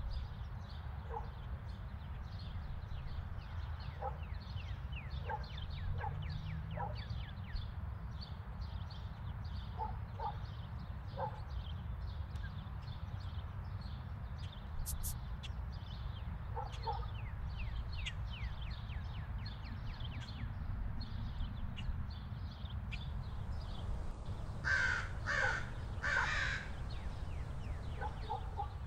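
Birds calling: continual high chirping, with a few harsh caws scattered through and a louder run of them near the end, over a steady low rumble.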